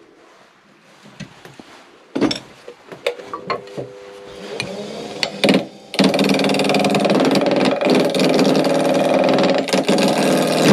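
Wood lathe handled with scattered knocks and clicks, then its electric motor starts abruptly about six seconds in and runs at a steady pitch.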